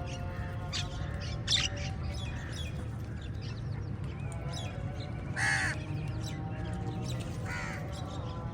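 Crows cawing: a few separate calls, the loudest about five and a half seconds in and another shortly before the end, over a steady background of held tones and low rumble.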